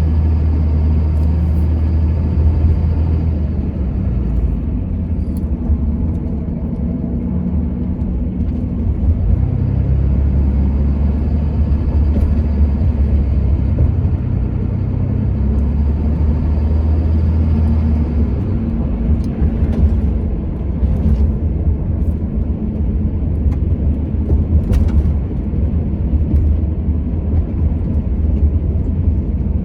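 Vehicle driving at steady speed, its engine and road rumble heard from inside the cab.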